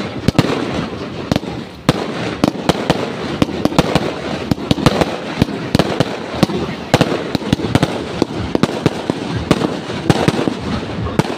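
Fireworks going off in rapid, irregular succession: a dense string of sharp bangs and pops, several a second, over a constant crackle.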